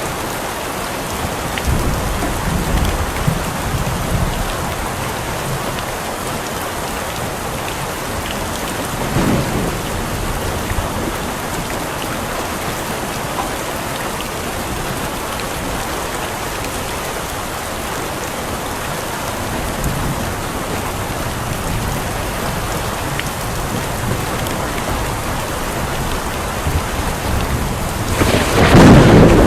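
Steady heavy rain with low rumbles of thunder, one swell about nine seconds in, and a louder burst near the end.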